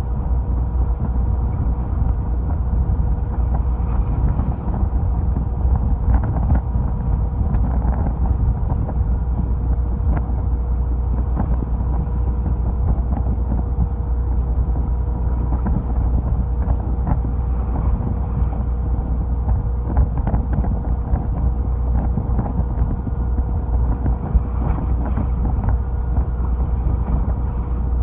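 Charter fishing boat's engine running steadily, a constant low rumble with a faint steady whine over it, and wind buffeting the microphone.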